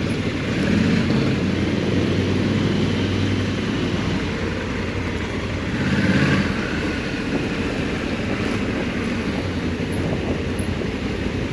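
Honda Africa Twin 1100's parallel-twin engine running at low revs on a slow ride, heard from on board. It swells briefly louder about six seconds in.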